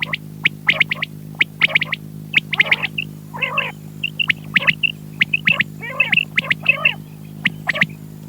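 Quail calling: a rapid series of short, sharp chirps and clicks with brief high notes and a few wavering calls, over a steady electrical hum.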